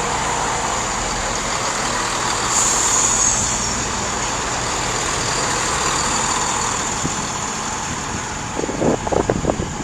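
Diesel trains running at a station platform, a steady engine and rumble with a short high hiss about two and a half seconds in. Gusts of wind hit the microphone near the end.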